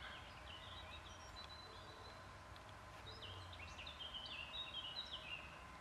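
Faint birdsong: quick chirping notes stepping up and down in pitch, busiest in the second half, over a faint low rumble.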